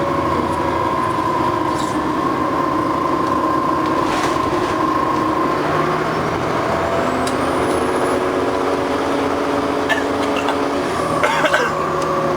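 Train running, heard from inside the carriage: a steady rumble with several held tones that shift to new pitches about six seconds in, and a few clicks near the end.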